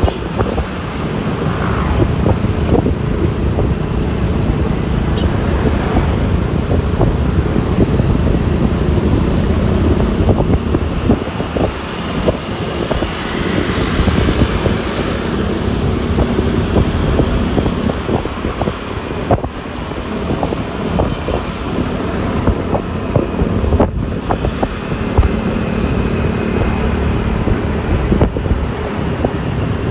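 Wind buffeting the microphone on a moving Yamaha Lexi LX 155 scooter, over steady road and traffic noise. The wind noise swells and eases through the ride.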